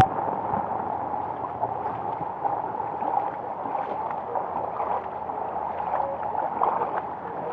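Steady rush of water, an even noise with no distinct events.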